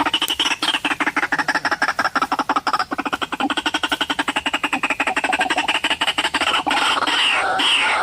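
White-breasted waterhen calls, most likely a recording played as a lure. A rapid, pulsing croak runs at about ten pulses a second; from about two-thirds of the way in it becomes a denser run of repeated falling cries.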